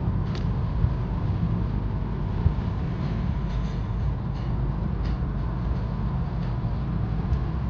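Mercedes-AMG car driving on a wet road: a steady low rumble of engine and road noise with an even hiss over it and a few faint ticks.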